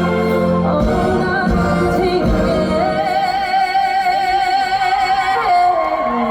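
Female vocalist singing a slow ballad live over low sustained accompaniment. The accompaniment drops away about two and a half seconds in, and about three seconds in she holds one long note with vibrato for over two seconds before her voice falls away near the end.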